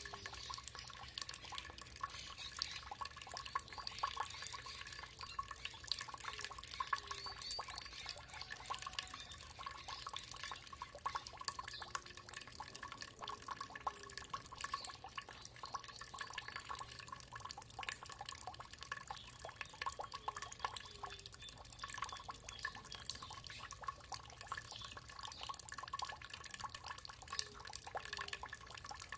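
Water trickling and dripping in a steady flow, with a dense run of irregular small drips and splashes.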